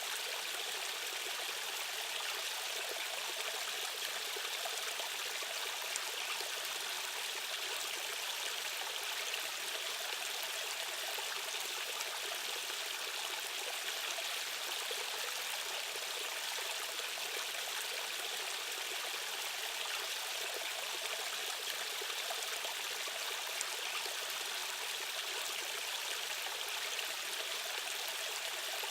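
Stream water rushing and trickling over rocks, a steady unbroken flow.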